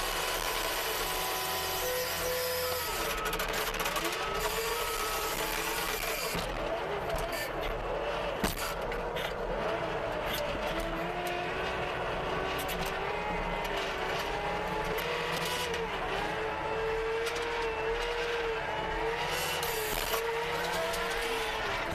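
CASE TR270B skid steer running with a rototiller attachment, a steady machine drone with a whine that wavers up and down in pitch as the load changes. A single sharp knock about eight seconds in.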